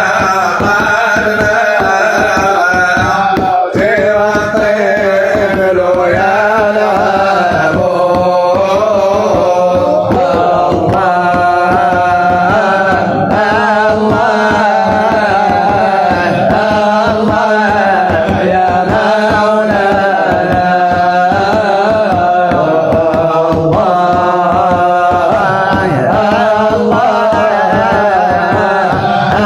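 Music: a religious song (nasheed), with a voice singing long, wavering melismatic lines over a steady drone and hand-drum beats.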